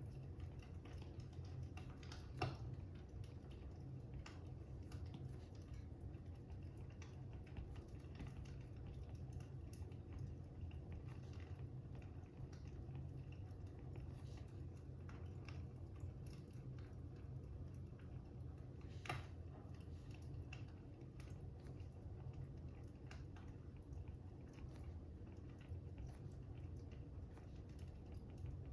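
Faint crackling fire: many small irregular crackles over a steady low rumble, with two louder pops, one about two seconds in and one about nineteen seconds in.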